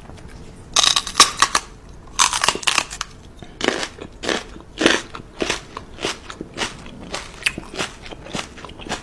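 Crunchy chewing as a man mock-bites a dog's ear: a run of loud, irregular crunches, several a second, starting about a second in.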